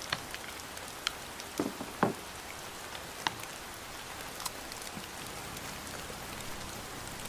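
Steady rain falling, with scattered light drips and a few brief taps and clinks about two seconds in.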